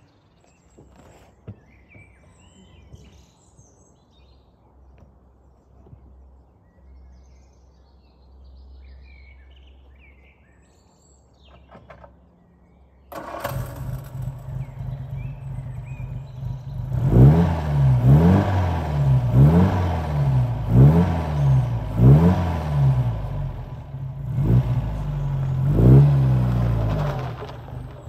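Birds chirping faintly, then about halfway through a 1948 MG TC's four-cylinder engine starts suddenly and runs, and is then revved up and down in a string of quick blips, one every second or so, which die away just before the end.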